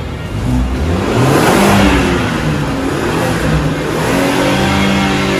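Car engine revving and accelerating: the pitch climbs over the first couple of seconds, then holds steady.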